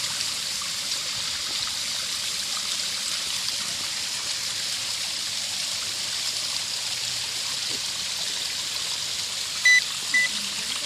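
Shallow stream water trickling steadily over bedrock. Near the end, two short high beeps from a metal detector sounding on a buried target.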